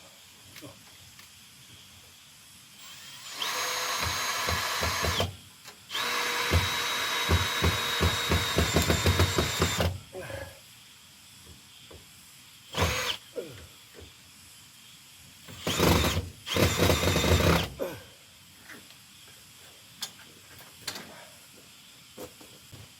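Power drill running in bursts while the sheets of a polycarbonate roof are fixed: two runs of a couple of seconds and about four seconds, the second with a rapid rattling pulse, then three short bursts. Faint knocks of handling come between the runs.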